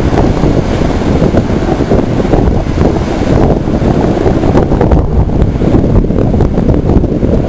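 Strong storm wind buffeting the microphone: a loud, low rumble that rises and falls in gusts.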